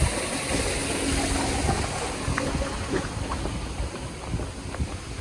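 Dray Sap waterfall's falling water rushing as a steady wash of noise with a low rumble, a little quieter in the second half.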